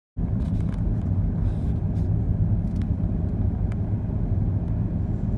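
Steady low rumble that starts abruptly just after the opening, with a few faint clicks over it.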